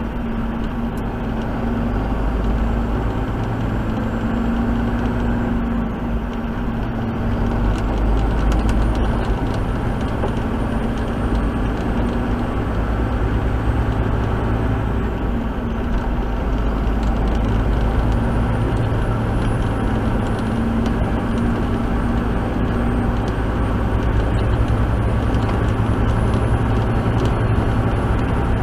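Truck engine running steadily at cruising speed, heard from inside the cab, with constant road and tyre noise and a faint high whistle that drifts up and down in pitch.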